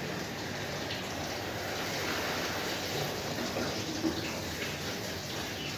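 Water running steadily from a tap or shower while a puppy is being bathed.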